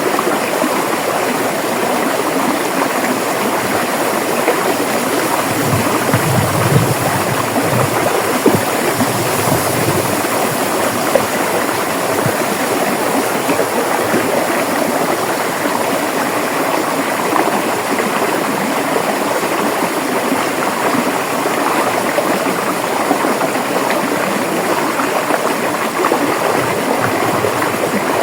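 River water rushing and babbling steadily over rocks, with a few slightly louder splashes and gurgles along the way.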